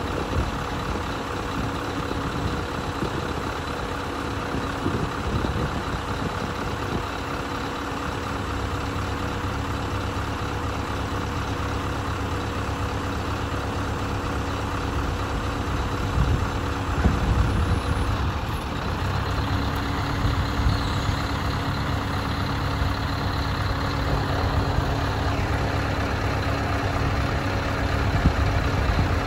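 Scania R560 truck's V8 diesel engine running steadily, its note shifting about eighteen seconds in.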